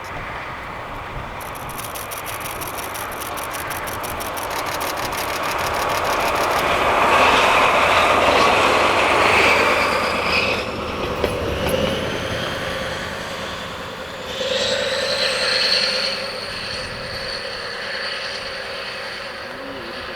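DE15 diesel-hydraulic locomotive with a Russell snowplough passing by. It grows louder to a peak about seven to ten seconds in, then fades away. A steady high-pitched squeal sets in about two-thirds of the way through.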